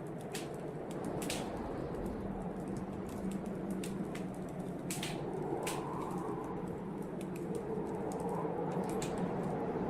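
Wood fire crackling in a fireplace, with irregular sharp pops and snaps, over the steady howl of blizzard wind that swells a little now and then.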